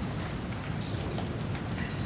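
Steady rain falling, with a few scattered drops ticking sharply on hard surfaces.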